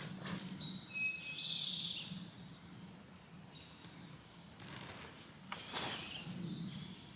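Birds chirping in short high calls, with a few brief rustling handling noises, strongest about six seconds in, over a faint steady low hum.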